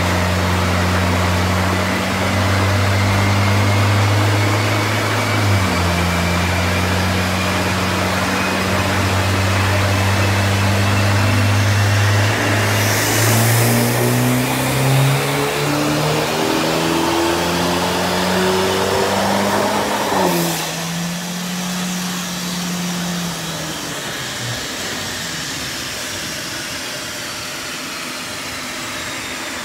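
Honda Civic RS's turbocharged 1.5-litre engine, remapped and fitted with a quiet aftermarket exhaust, doing a dyno run. It runs under load at steady revs while the spinning rollers' whine rises. It then revs up for about eight seconds and is let off about 20 seconds in, dropping back and fading while the wheels and dyno rollers spin down with a falling whine.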